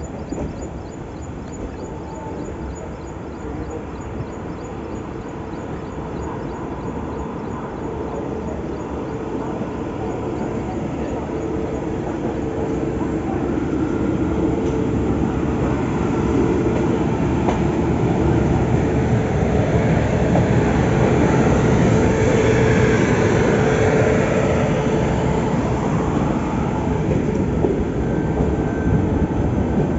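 Train running on the line, a steady rumble that grows louder over the first twenty seconds or so and then holds.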